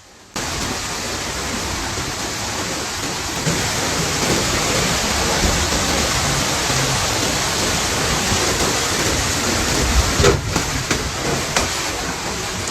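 Storm noise: a loud, dense, steady rush that cuts in abruptly just after the start, with a few louder surges near the end.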